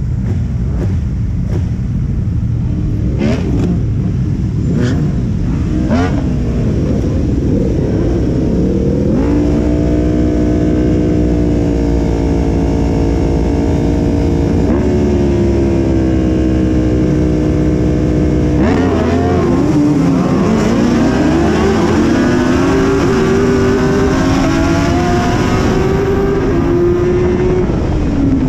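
Suzuki Hayabusa inline-four motorcycle engine under way, heard from on the bike. Its pitch climbs, holds steady, drops sharply about two-thirds of the way through, then climbs again.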